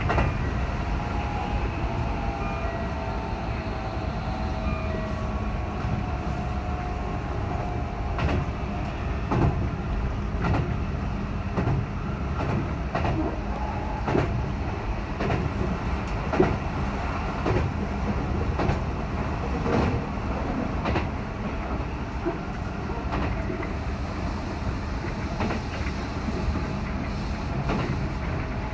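Keihan 3000-series electric train running, heard from inside the front car: a steady rumble with a faint whine that falls in pitch over the first few seconds. After that, irregular clicks of the wheels passing over rail joints.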